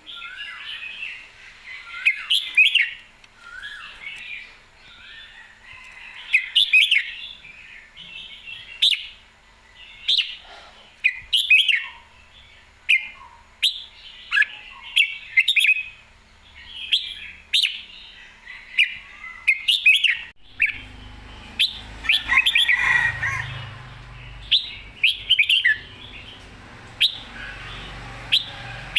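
Red-whiskered bulbul singing over and over in short, bright whistled phrases, a new phrase every second or two, in lively, full-voiced song. About two-thirds of the way in, a low steady rumble joins underneath.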